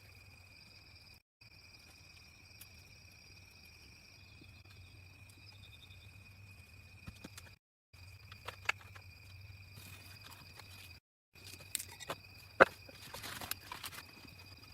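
Steady high-pitched insect drone of rainforest ambience, broken by three brief dropouts. A scattering of sharp clicks and knocks comes in the second half, with one hard knock standing out near the end.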